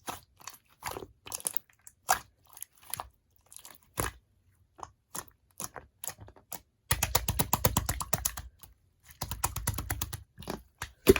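Clear glitter slime squished and pressed by hand, making irregular sticky clicks and pops. Two stretches of rapid crackling pops come about seven and nine seconds in, and a single loud pop comes near the end.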